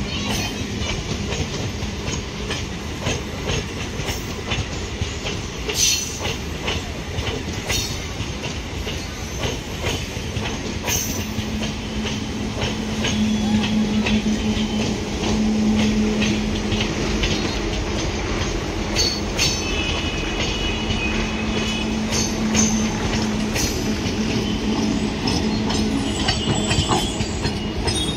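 Green-and-cream electric local train (EMU) rolling slowly past, rumbling and clacking over the rail joints and points. High wheel squeals come in about twenty seconds in and again near the end.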